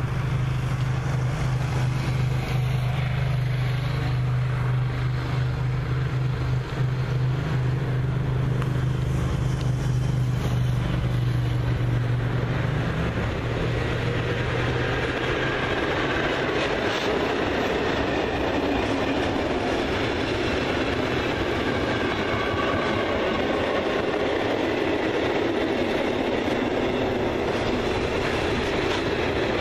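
An electric freight locomotive approaches with a steady low hum that stops as it passes about halfway through. A long train of tank wagons follows, rolling past with steady wheel-on-rail noise.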